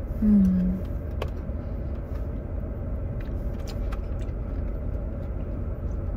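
Low steady rumble of a Jeep Wrangler idling, heard from inside the cabin, with a short 'mm' hum near the start and a few faint ticks.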